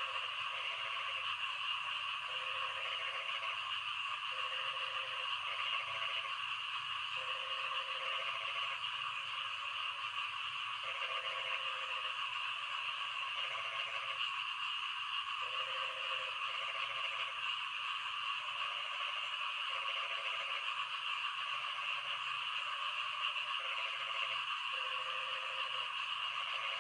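Frogs croaking in a chorus during rain, short calls repeating about once a second over a steady hiss of falling rain.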